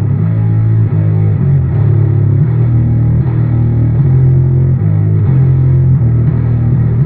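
Electric bass guitar played through a Boss ODB-3 bass overdrive pedal into an Orange 50-watt amp, at a gritty overdriven 'coastal' setting. It plays a run of held low notes, shifting pitch every half second to a second.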